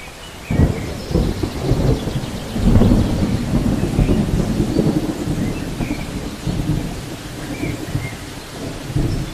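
Thunder breaking suddenly about half a second in, then a low rolling rumble that swells near three seconds and keeps grumbling, over steady rain.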